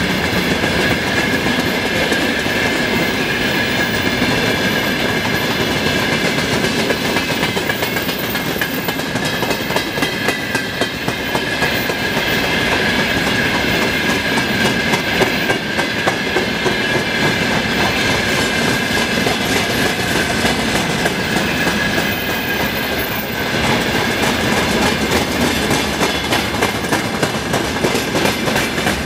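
Freight train wagons rolling steadily past, wheels clattering over the rail joints, with a steady high ringing tone running through the rolling noise.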